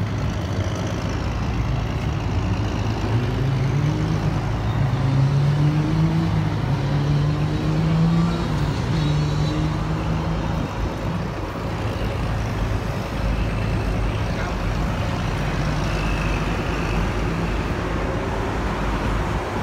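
Road traffic noise, with a motor vehicle's engine rising in pitch as it speeds up, loudest between about 4 and 9 seconds in.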